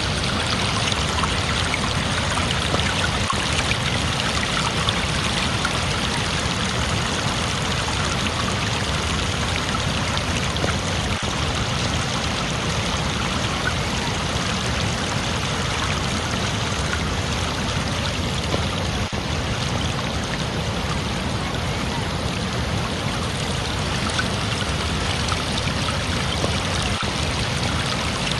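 Flowing water rushing steadily and evenly, like a stream.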